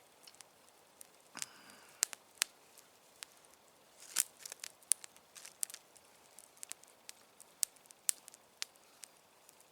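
Campfire crackling: irregular sharp pops and snaps from burning wood, with a denser run of louder pops about four seconds in.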